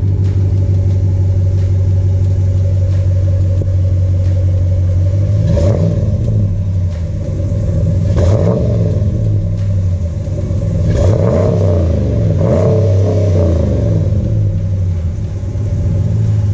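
2016 Ram Sport pickup's V8 exhaust idling, blipped four times: short revs about five seconds in, about eight seconds in, and two close together around eleven and twelve seconds, each dropping back to a steady idle. The engine is already warm, not a cold start.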